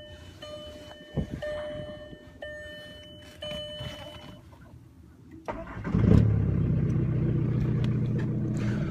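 A dashboard warning chime dings about once a second, then about five and a half seconds in the Jetta TDI's 1.9-litre four-cylinder turbodiesel cranks briefly and catches almost at once, settling into a steady idle. It is a cold start at −31°F, with the engine's frost heater plugged in beforehand.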